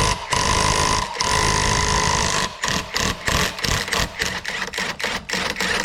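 Impact wrench hammering on a 1 1/8-inch nut on a hydraulic cylinder's rod, run in several bursts with short pauses between them until the nut breaks loose.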